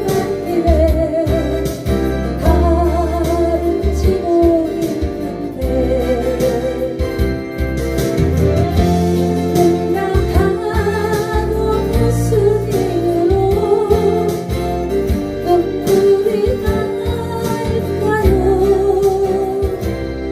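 A singer performing a slow Korean ballad with vibrato on held notes, over acoustic guitar and a steady backing accompaniment with bass and keyboard.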